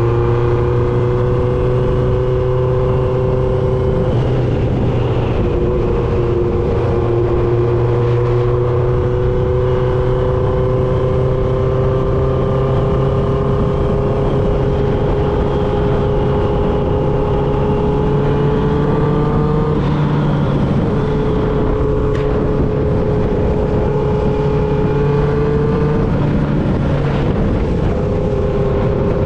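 1995 Honda CB750 Nighthawk's air-cooled inline-four running through a Vance and Hines 4-into-1 exhaust while riding, with a low rush of wind and road noise. The engine note climbs slowly and dips briefly three times: about four seconds in, around twenty seconds and near twenty-six seconds.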